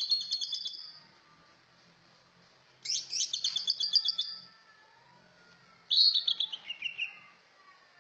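A trucak ijo songbird singing three short phrases, each a quick run of high, clear notes. The last phrase drops in pitch at its end.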